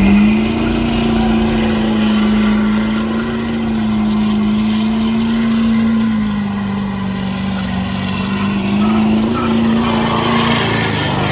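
Vehicle engine held at high, steady revs through a burnout, spinning the tyres. Its pitch sags a little past the middle and climbs back near the end.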